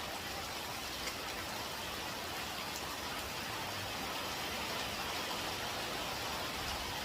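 Steady heavy rain pouring and pattering on surfaces during a typhoon, with a few faint drip ticks.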